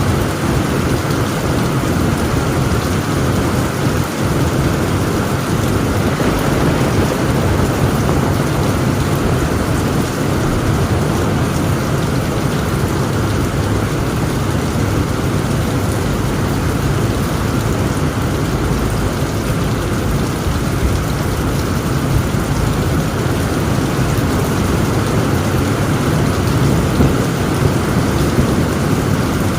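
Heavy rain falling steadily on a tent roof, with a continuous low rumble of thunder underneath.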